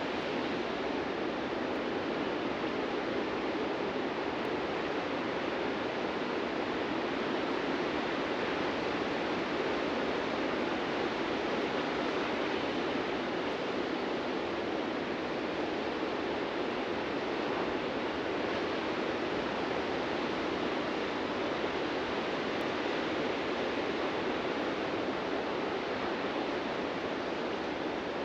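Ocean surf: a steady rush of waves breaking and washing on the beach.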